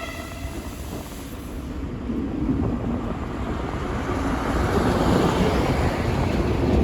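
Train approaching through a station at speed, its rumble and rail noise growing steadily louder over the first few seconds and staying loud as it draws level.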